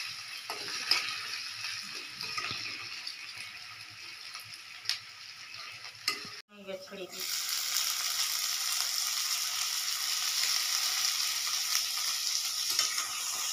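Chopped green chillies and tomatoes sizzling in hot oil in a steel pan while a steel spatula stirs them, with a few sharp taps of the spatula on the pan. The sound cuts out for a moment about six and a half seconds in, then the sizzling comes back louder and steadier.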